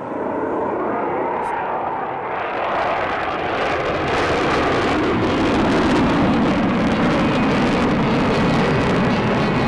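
Jet aircraft noise, a steady rushing roar that grows gradually louder and brighter over the several seconds.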